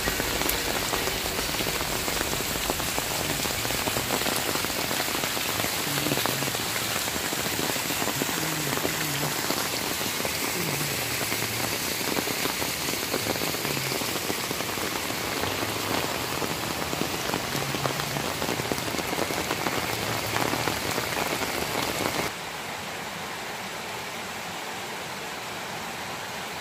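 Steady rain falling on the ground and leaves, mixed with a small waterfall splashing into a pool. Near the end it cuts to a quieter, steadier rush of a forest stream.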